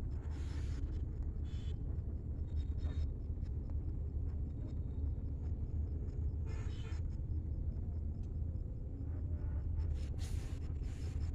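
A steady low rumble, with brief rustling swishes a few times.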